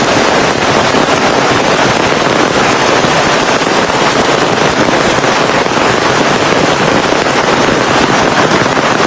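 Heavy rain pouring down steadily, a dense even hiss of countless drops.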